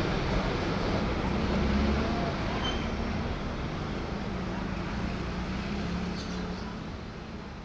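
Rumble of a diesel-hauled passenger train moving away along the track, with a low steady drone underneath, fading steadily.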